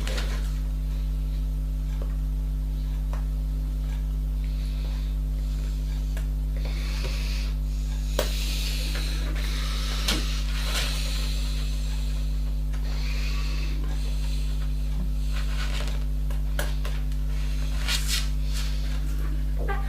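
Intermittent rubbing and scraping, with a few sharp clicks, over a steady low electrical hum.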